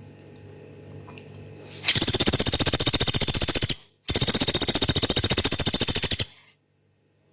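Pelatuk beras woodpecker giving two long, harsh, rapid rattling calls of about two seconds each, separated by a brief pause.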